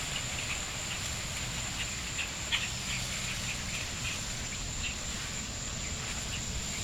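Birds giving short, scattered chirps over a steady high-pitched tone and a low rumble.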